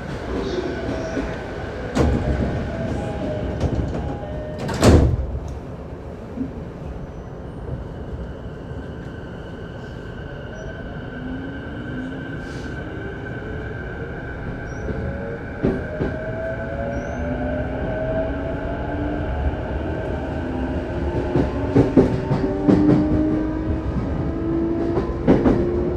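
Running sound heard inside a JR Saikyo Line electric commuter train: a steady rumble of wheels on rail. From about ten seconds in, the traction motor whine climbs steadily in pitch as the train picks up speed. There is a sharp clack about five seconds in and scattered clicks of the wheels over rail joints.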